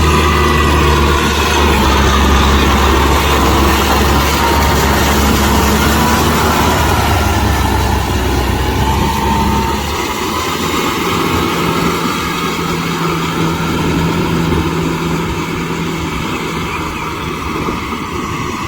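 Kubota M6040SU tractor's diesel engine running steadily while driving a rotavator through mud. The low drone weakens about halfway through, and a thinner steady hum carries on.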